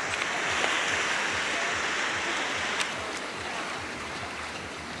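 Sea surf washing onto a beach: a wave's rush that swells in the first second and eases off after about three seconds.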